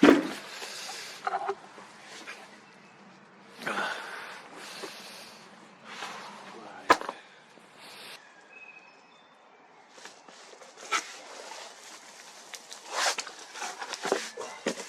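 Packaging and cardboard being handled around an electric scooter: a run of rustling swishes and scrapes with scattered knocks, a sharp click about seven seconds in, and a cluster of harder knocks near the end.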